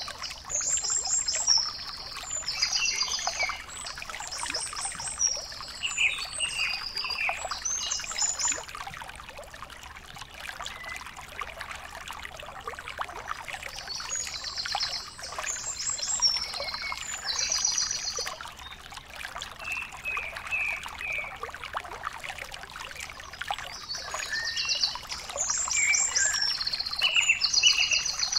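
Birds singing in repeated phrases of rapid high trills, in three clusters, over a steady rushing hiss.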